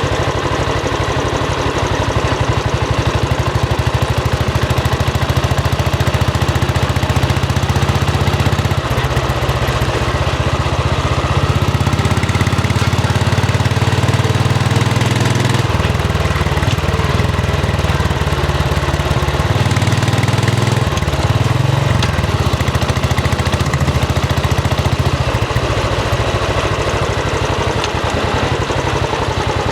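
Royal Enfield Bullet 500 single-cylinder engine running through its exhaust, mostly at idle with a fast, even beat. The note changes a few times, around ten and twenty seconds in, as the throttle is eased open and closed.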